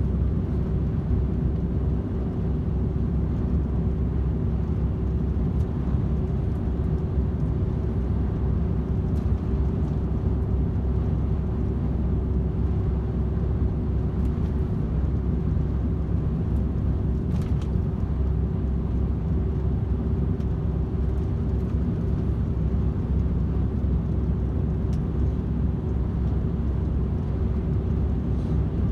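DAF XF 510 truck cruising on the motorway: a steady low drone from its PACCAR MX-13 six-cylinder diesel and its tyres on the road, with a constant hum held over it.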